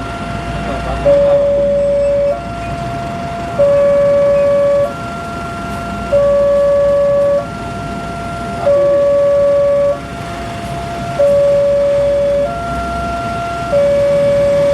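Railway level-crossing warning alarm sounding an electronic two-tone signal: a louder lower tone and a higher tone alternate, each held about a second and a half, warning that a train is approaching. A low rumble runs underneath.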